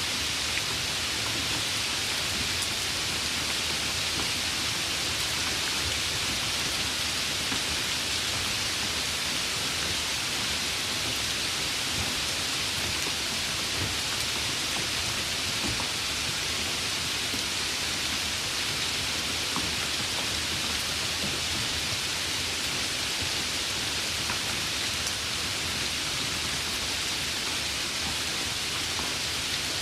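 Steady, even rain with scattered faint drop ticks.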